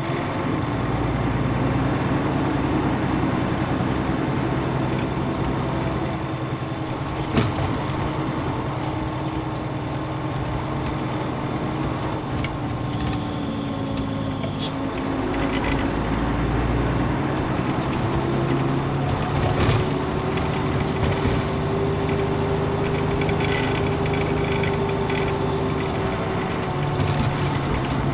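Nissan Diesel UA bus with its PF6HTA diesel engine running under way, the engine note falling and rising as the bus slows and picks up speed. A sharp click comes about seven seconds in, and a brief hiss about thirteen seconds in.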